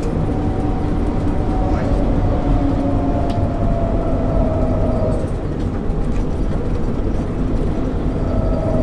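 A 1999 MAN ÜL 353 intercity bus under way, heard from on board: a steady diesel engine and road rumble, with a whine that slowly falls in pitch over the first few seconds and comes back near the end.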